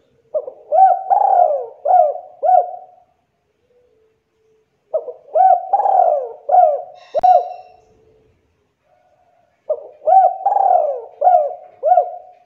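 Spotted dove (tekukur) cooing: three phrases, each a run of four or five rising-and-falling coos, with pauses of about two seconds between them.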